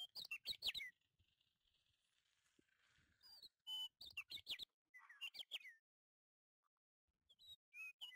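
Small bird chirping in short bursts of quick, falling high chirps, four times, with a faint hiss between the first two bursts.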